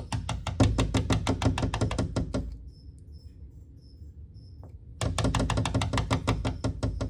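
Cockatiel rapidly knocking its beak against a hard surface, about eight taps a second, in two runs of two to two and a half seconds with a pause of about two and a half seconds between.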